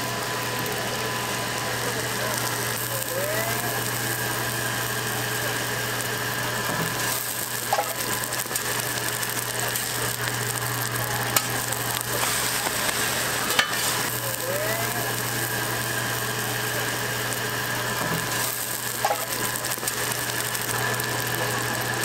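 Seafood and green onion pancakes frying in oil on a flat griddle, a steady sizzle over a steady low hum, with a few sharp clicks.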